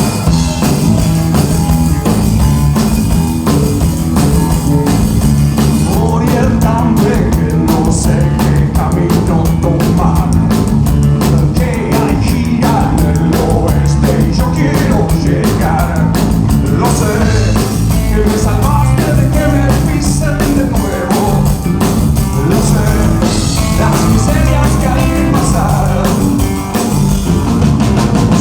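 A rock band playing a song live, with a drum kit and a heavy low bass end. The music comes in suddenly at full volume and carries on steadily.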